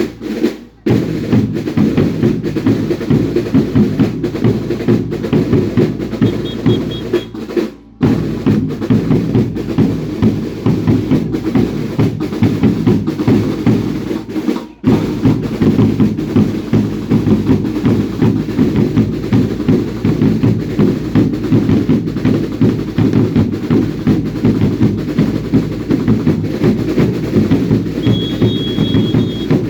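A dance troupe's drums beating a fast, steady rhythm, deep booming drums mixed with snare-like rattles. The drumming breaks off briefly three times, about a second in, near the middle of the first third and about halfway through. A short high tone sounds twice over the drumming.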